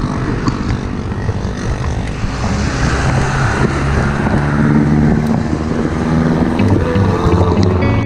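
Wind rushing over an action camera's microphone while cycling along a road, with a motor vehicle's engine droning low in the second half.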